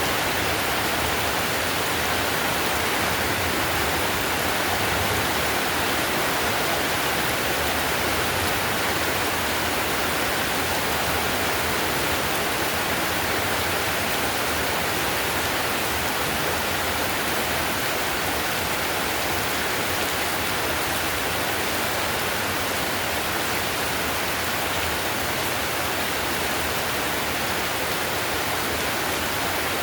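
Heavy rain falling steadily on a tiled roof: an even, unbroken hiss with no single drops standing out.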